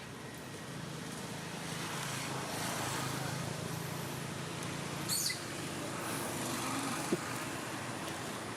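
Steady outdoor background noise with a low hum, like distant traffic, with a brief high squeak about five seconds in and a sharp tick about seven seconds in.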